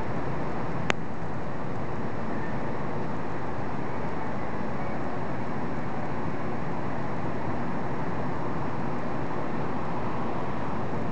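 Steady, even rushing outdoor noise with no change in level, and a single sharp click about a second in.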